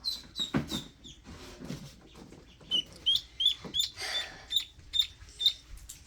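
Newly hatched ducklings peeping: a string of short, high peeps, with some rustling around a second in and again about four seconds in.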